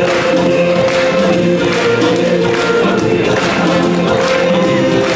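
Live stage-show music with a choir singing a sing-along over the instrumental backing, holding a long steady note.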